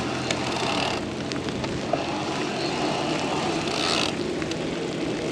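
Mountain bike rolling down a muddy trail: steady wind rush and tyre noise on the microphone, with the odd click and rattle from the bike.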